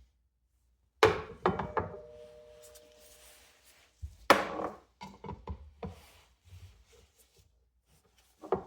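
Box fan parts being handled and set down on a hard surface: two sharp knocks, about a second and about four seconds in, each followed by light clattering, the first leaving a short ringing tone.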